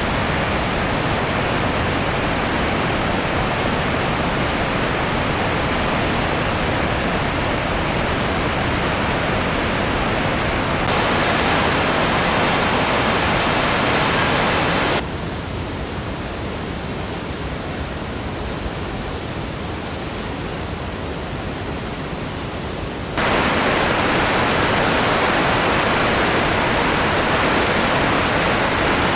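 Steady rushing of a waterfall's water, loud and even, broken into several stretches that change abruptly in level and tone: quieter and duller for several seconds in the middle.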